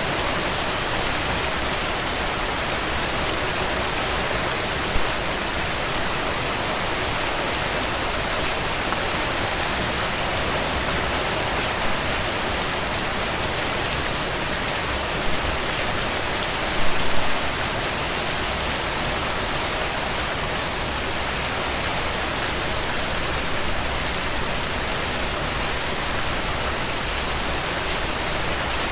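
Steady rain falling on a tent, a dense even hiss with scattered sharp ticks of drops. Brief louder spikes come about 5 and 17 seconds in.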